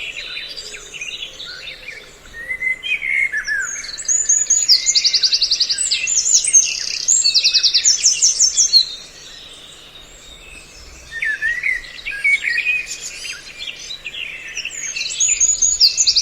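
A mixed recording of several songbirds calling over one another, dense chirps and whistles with fast rattling trills, played as a bird-trapping lure. It thins out briefly past the middle, then picks up again.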